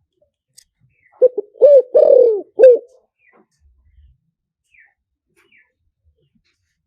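Spotted dove cooing: one phrase of two quick short notes, a longer arched coo and a final short coo, lasting under two seconds, about a second in. Faint high chirps of another small bird follow.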